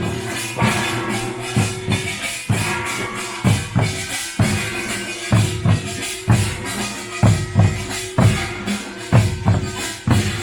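Pungmul farmers' band playing: a dense, driving beat of deep drum strokes under rapid clanging metal percussion, with a ringing tone held through it.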